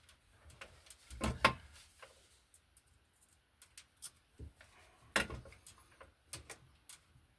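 Scattered clicks and knocks of electrical wires and hand tools being handled at an outlet box, with two louder clacks, one about a second and a half in and one about five seconds in.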